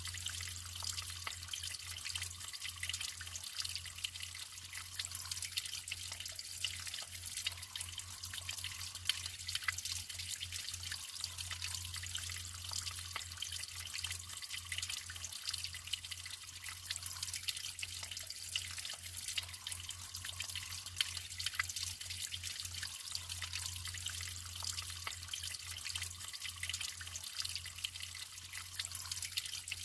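Natural running water trickling and splashing steadily, a fine bright patter of small drips and splashes, with a steady low hum underneath.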